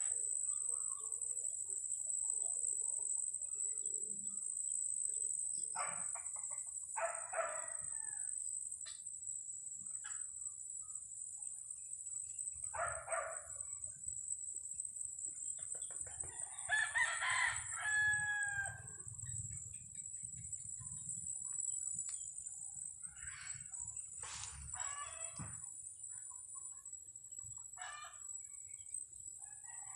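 Chickens calling on and off: several short clucks and crows, the longest crow about two-thirds of the way through, over a steady high-pitched hiss.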